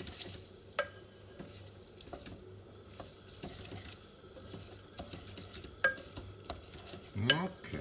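Pasta being stirred and tossed in a frying pan of simmering sauce, with a faint sizzle. A utensil knocks sharply against the pan a few times, once about a second in and again near six seconds.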